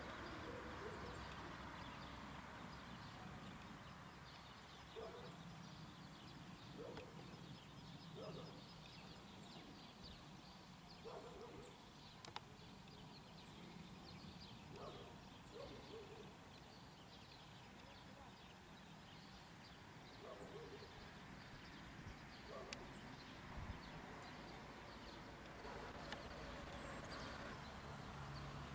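Faint outdoor ambience with scattered short bird calls at irregular intervals.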